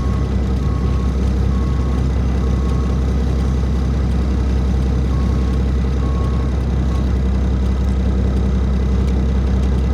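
Diesel truck engine running with a steady low rumble, with a reversing alarm beeping about once a second that pauses briefly and stops about seven seconds in.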